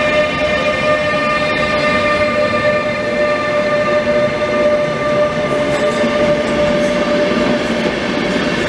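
ÖBB Railjet train rolling past along the platform: a steady whine with several overtones over the rumble of the coaches' wheels, the whine fading near the end.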